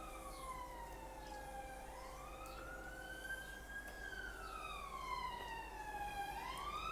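A siren wailing faintly, its pitch sweeping slowly up and down in a cycle of about four seconds.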